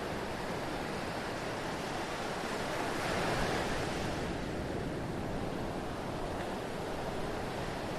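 Steady rush of water, swelling louder about three seconds in and easing back about a second later.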